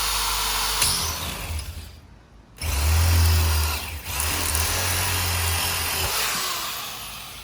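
Power drill boring out a rivet in a bus's interior wall panel. It runs, stops briefly about two seconds in, then starts again under load and winds down near the end.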